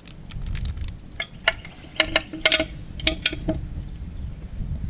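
Small steel hardware clinking: a flat washer and M8 bolt being handled and fitted through the mower deck's bolt hole, a string of light metallic clicks and clinks, thickest in the middle, over a low steady rumble.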